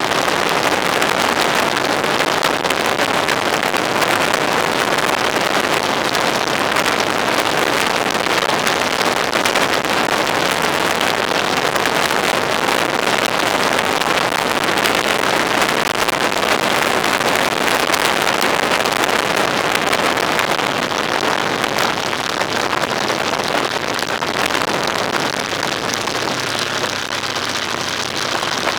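Steady rushing wind and road noise of a vehicle on the move. It eases slightly near the end, where a faint low engine hum shows.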